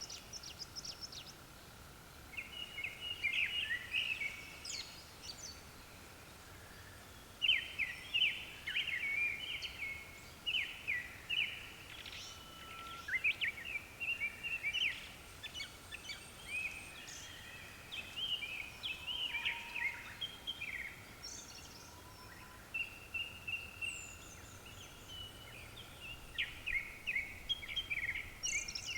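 Japanese thrush (kurotsugumi) song: short, quick phrases of varied whistled and warbled notes repeated with brief pauses, with more than one bird singing.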